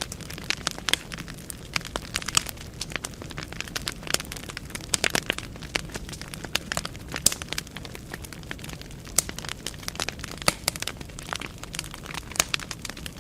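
Burning firewood crackling in a fireplace: many sharp, irregular pops and snaps over the steady low rumble of the flames.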